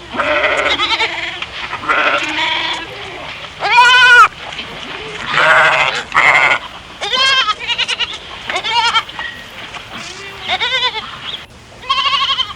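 Goats bleating, a run of about nine wavering calls, some overlapping, the loudest about four seconds in.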